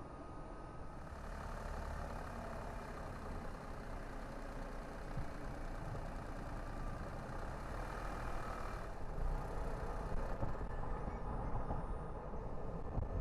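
Road noise from a car driving: a steady low rumble with tyre hiss. The hiss swells about a second in and falls away about nine seconds in, as of another vehicle passing.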